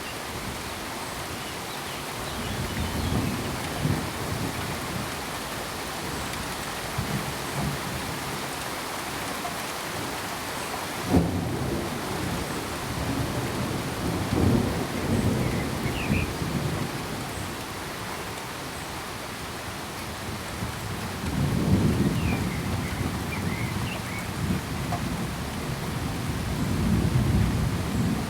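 Steady rain falling, with thunder rumbling low several times and one sharp crack about eleven seconds in.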